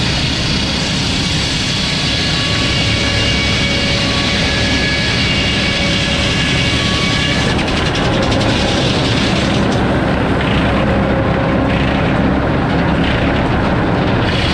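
Sawmill circular headsaw running steadily with the mill's drive, a loud continuous machine drone with several steady whining tones. About halfway through, the pitch pattern of the whine shifts.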